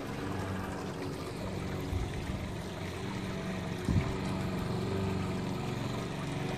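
Steady running water with a low, even hum beneath it.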